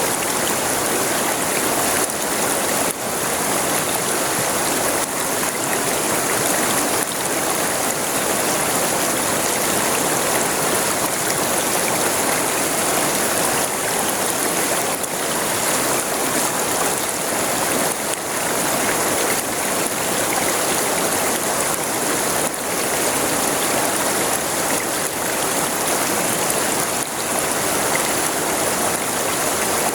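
A river flowing, a steady rushing and splashing of water over the stream bed.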